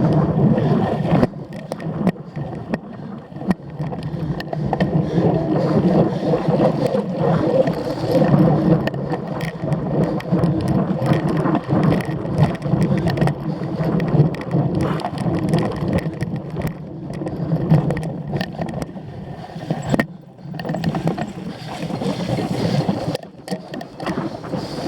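Cyclocross bike ridden over rough ground: steady rumbling from wind and tyres, with frequent clicks and rattles from the chain and frame, and a short let-up twice near the end.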